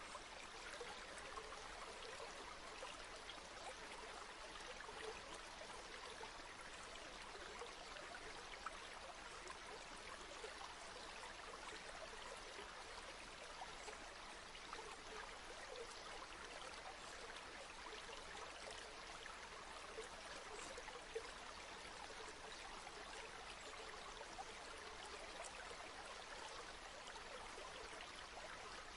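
River water flowing and babbling steadily, with small splashes and trickles throughout.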